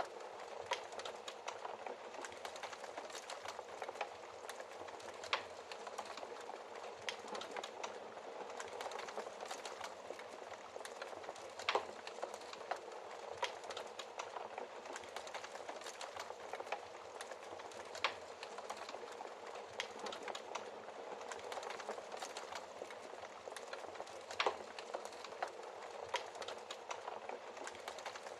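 Fire in a fireplace crackling steadily, with frequent irregular sharp pops over a soft hiss; a few pops stand out louder, about 12, 18 and 24 seconds in.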